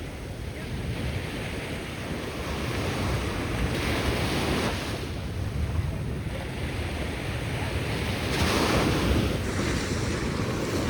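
Ocean waves washing onto the shore, swelling louder about four seconds in and again near the end, with wind buffeting the microphone.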